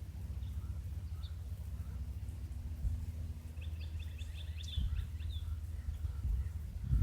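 Grackle calling: a few faint chirps, then about three and a half seconds in a quick run of sharp clicking notes ending in a couple of slurred whistled notes. A steady low rumble runs underneath.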